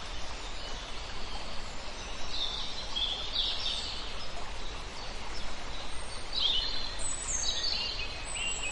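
Songbirds singing in short, falling high-pitched phrases over a steady background hiss, the calls coming more often in the second half.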